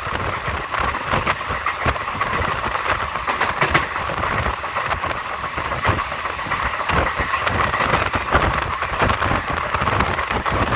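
Moving train on the track: a steady rumble and hiss of running, broken by frequent irregular knocks and rattles from the wheels and carriage.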